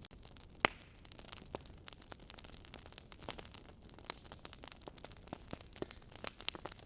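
Wood fire crackling with irregular small snaps and pops over a faint hiss, one loud pop a little over half a second in.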